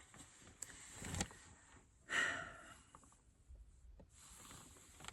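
Mostly quiet inside a car: a faint tap and a soft knock in the first second or so, then a woman's short breath out about two seconds in, with a few faint handling sounds after.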